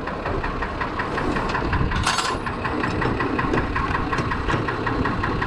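Fordson Major tractor's swapped-in six-cylinder Perkins diesel engine idling with a steady, even rhythm. A short sharp noise cuts in about two seconds in.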